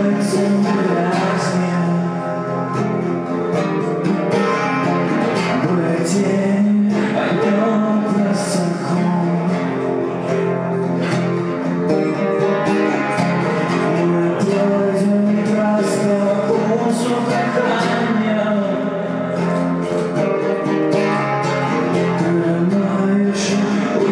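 Acoustic guitar strummed steadily, playing a song live.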